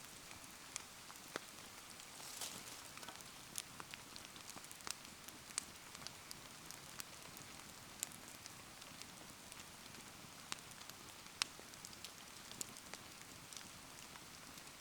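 Wood bonfire crackling, with sharp irregular pops and snaps over a steady patter of rain. A short swell of hiss comes about two and a half seconds in.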